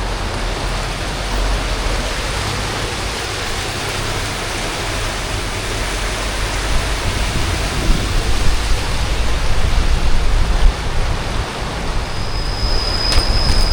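Steady rushing of a big river, a loud even wash of water noise with a deep rumble under it. Near the end a thin, steady high-pitched tone joins in, with a few faint clicks.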